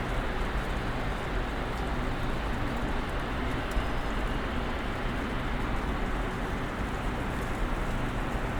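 Snowstorm ambience: a steady, even hiss of wind-driven snow with a low rumble underneath.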